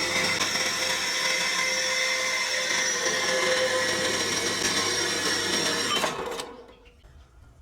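A small high-speed motor running steadily, then stopping about six seconds in and winding down within about half a second.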